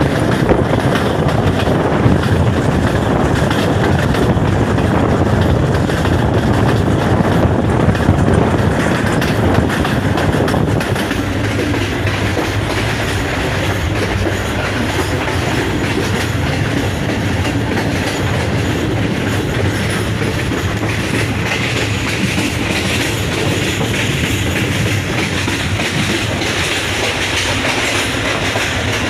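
Passenger coach of the Hazara Express on the move: the steady running noise of the train's wheels on the rails, easing slightly about a third of the way in.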